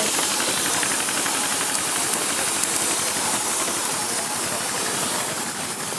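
Steady hiss of steam escaping from a working steam engine.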